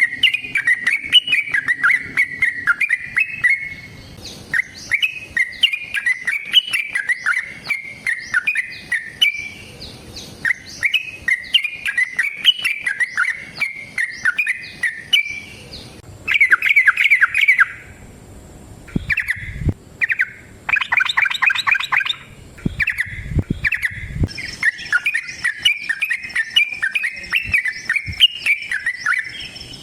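Yellow-vented bulbul (trucukan) singing long, rapid, chattering song phrases almost without pause. There is a short break about two-thirds of the way through, marked by a few dull low thumps.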